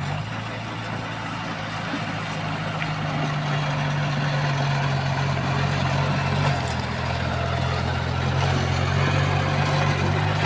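Heavy construction machine's diesel engine running steadily as a low drone, with a slight change in tone about six and a half seconds in.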